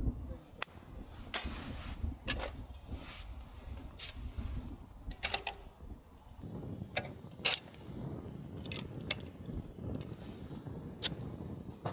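Scattered sharp clicks and knocks of small hard objects being handled, over a low rumbling background.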